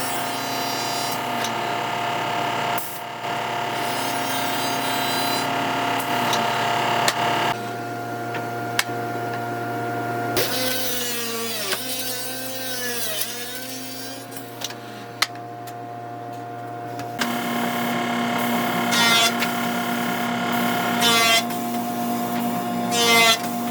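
Woodworking power machinery running, with a steady motor hum. The sound changes abruptly several times, and for a few seconds in the middle the pitch wavers up and down.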